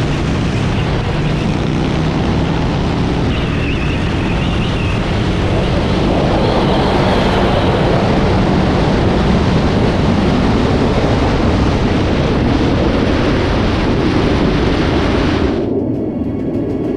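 Motorcycle at speed: engine running steadily under heavy wind rush on a helmet camera's microphone. Near the end the wind hiss cuts off abruptly, leaving the lower engine sound.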